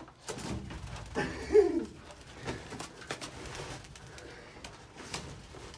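Birds calling at close range, with scattered clicks and knocks; the loudest call comes about one and a half seconds in.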